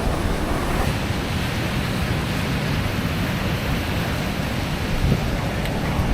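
Ocean surf washing in, with wind blowing across the microphone: a steady rushing noise with a low rumble underneath.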